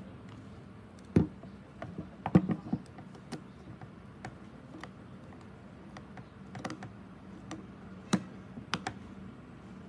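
Hard small parts and tools tapped and set down by hand: irregular light clicks and knocks, the loudest about a second in, around two and a half seconds in, and just past eight seconds.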